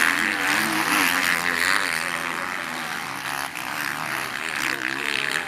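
Several motocross bike engines racing on track, their pitches rising and falling with the throttle.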